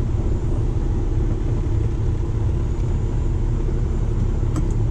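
Steady low rumble of a truck engine running, with a single short click near the end.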